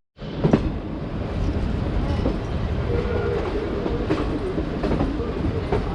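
Udaipur Express passenger train running on the rails: a steady rumble with a few scattered wheel clicks over the track.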